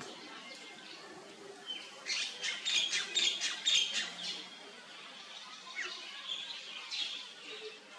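Birds chirping in the surrounding trees, with a rapid, louder burst of high chirps about two seconds in that lasts around two seconds, and scattered single chirps before and after.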